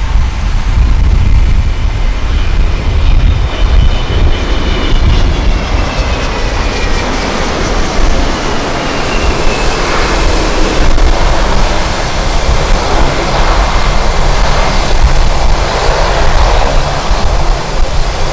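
Jet airliner's engines running as it passes, with a high whine that falls in pitch a few seconds in, under a heavy rumble of strong wind buffeting the microphone.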